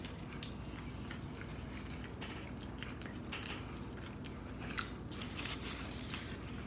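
Close-up eating sounds: chewing and biting food, with scattered small wet clicks and crunches from the mouth.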